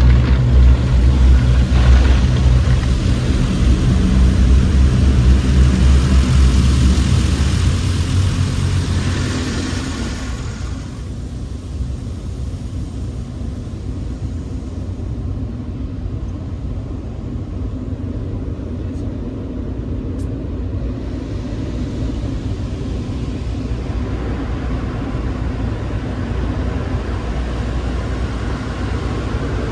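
Automatic car wash equipment working on the car, heard from inside the cabin: a loud hiss over a low rumble that fades after about ten seconds, leaving a quieter steady rumble.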